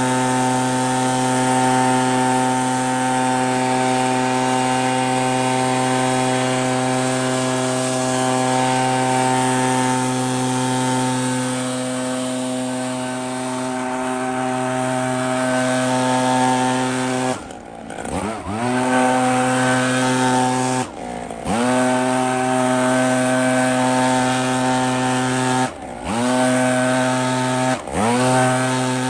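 Echo PB-8010T backpack leaf blower's two-stroke engine running steadily at high throttle while blowing snow. In the second half the throttle is released and snapped back four times, the engine note dropping and climbing back up each time.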